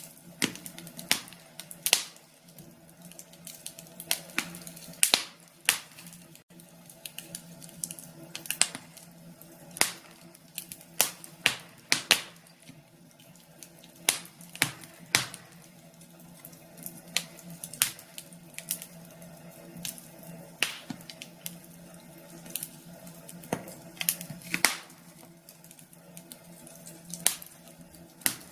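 Wood logs burning in a fireplace, crackling with irregular sharp pops, now and then several close together, over a faint steady low hum.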